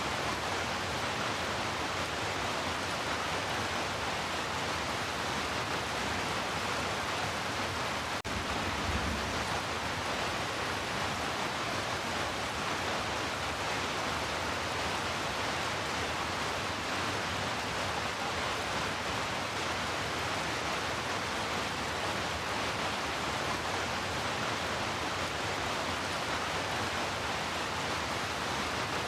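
Heavy rain falling steadily, an even hiss with no let-up. A brief low thump about eight seconds in.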